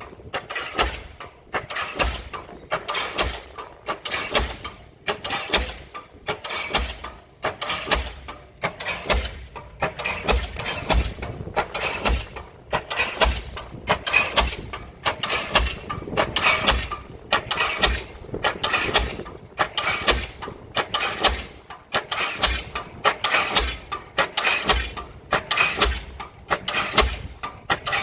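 Diesel pile hammer driving a pile, firing with a sharp bang about once a second in a steady, even rhythm.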